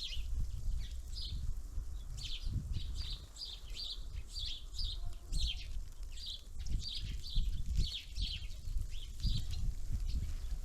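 Small songbirds at a winter feeder giving a rapid string of short, high chirps, two or three a second, with an uneven low rumble underneath.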